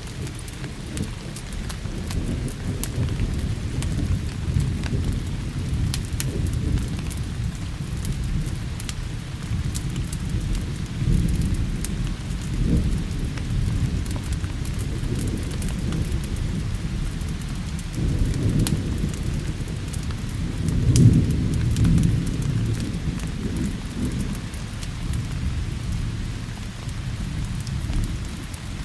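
Thunderstorm: steady rain with thunder rumbling low and continuously, swelling loudest about two-thirds of the way through. Scattered sharp crackles from a wood fire sound over it.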